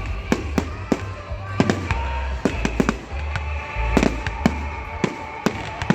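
Fireworks going off in a fast, irregular run of sharp bangs and cracks, over music played loud through a sound system with a pulsing deep bass.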